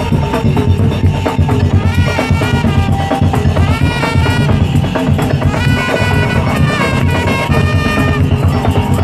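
Madurese daul music: loud, dense, steady drumming, with a reedy melody line that moves in steps over it from about two seconds in.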